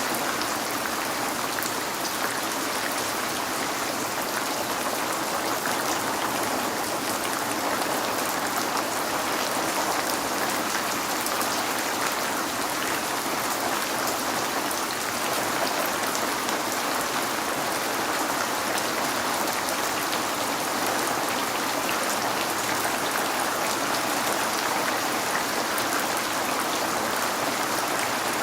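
Steady rain falling, a continuous hiss with fine pattering drops, unchanging in strength.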